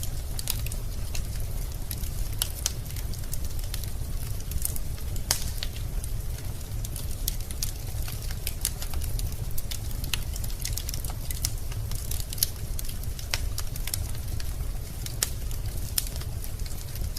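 Wood fire in a fireplace burning with irregular, frequent crackles and pops over a steady low rumble of the flames.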